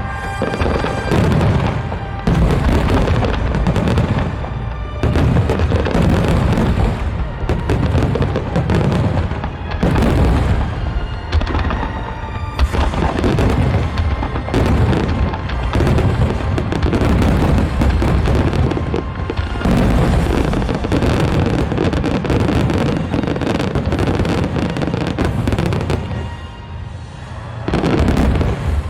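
Aerial fireworks shells bursting one after another in deep booms, about every second or two, with music playing throughout. The bursts ease off briefly near the end.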